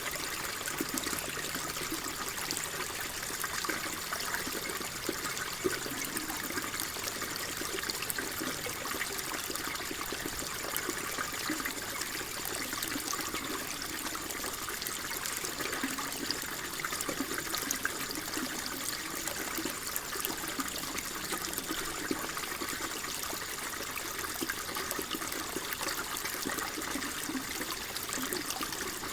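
Water flowing and trickling steadily, with a constant babble of small splashes and gurgles.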